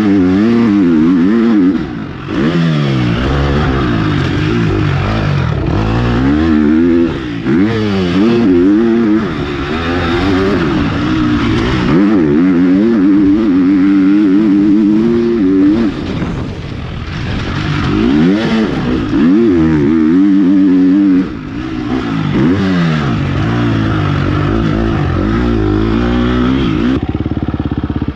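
KTM 250 SX-F four-stroke motocross bike being ridden hard, its engine revving up and down over and over through the gears. The throttle is shut off briefly a few times.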